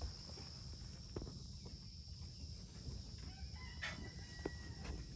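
Faint chickens in the background, with a rooster crowing, over a low steady outdoor background.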